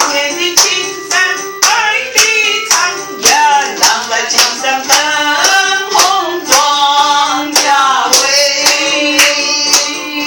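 A woman singing a melody over keyboard accompaniment, with a steady beat of sharp percussion hits about twice a second.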